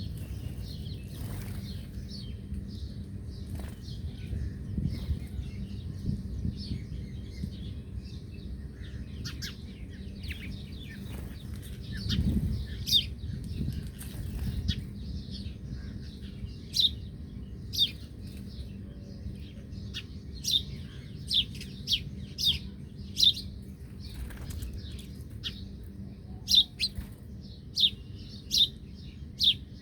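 Birds chirping with many short, high calls. In the second half, louder single sharp chirps come about once a second, over a low steady rumble.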